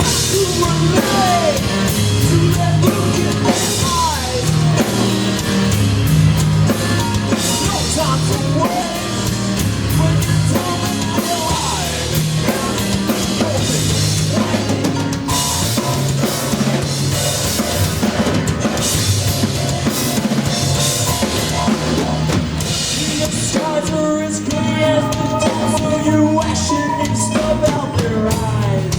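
Live band playing an instrumental passage with no vocals: a drum kit with kick drum and cymbals, a bass line, and keyboard parts with sliding pitches.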